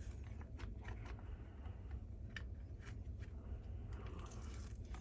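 Scattered light clicks and taps of plastic parts being handled as a cordless vacuum's roller head is taken apart.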